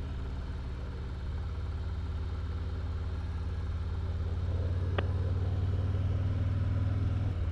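Motorcycle engine running under way, its steady low note climbing in pitch and growing louder about halfway through as it accelerates, then dropping suddenly near the end. A single sharp click about five seconds in.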